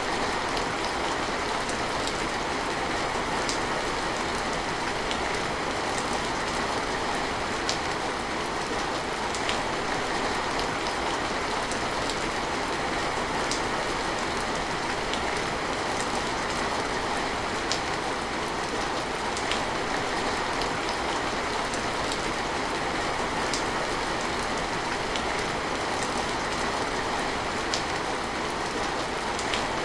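Steady rain falling, an even hiss with occasional sharper drop ticks every second or two.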